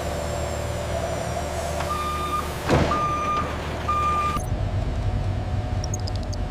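An electronic warning beeper sounding three evenly spaced beeps about a second apart over a steady machinery hum, with a short whoosh between the first two beeps. The background hum changes abruptly just after the third beep.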